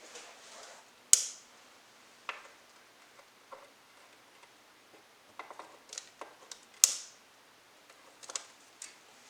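Small twigs burning in a fireplace, crackling with scattered sharp pops: two loud ones about a second in and near seven seconds, and clusters of smaller ticks between.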